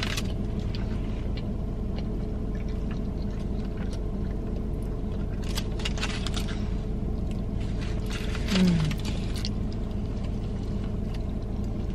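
Chewing of a juicy cheeseburger, with scattered wet mouth clicks and crinkling of its foil wrapper, over a steady low hum inside a car. A short closed-mouth "mm" of enjoyment comes about eight and a half seconds in.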